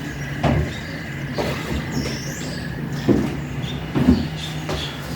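Feet thudding on and off a 20-inch box during dumbbell box step-up-and-overs, roughly one thud a second, over a steady low hum.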